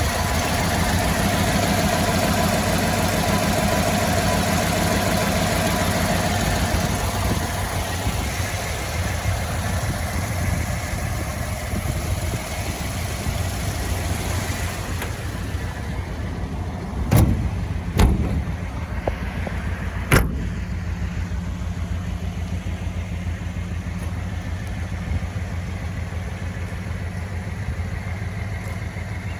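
1956 Ford Thunderbird's 312 Y-block V8 idling steadily. The sound is fuller for the first half and quieter after about fifteen seconds. Three sharp knocks come in the middle, about a second or two apart.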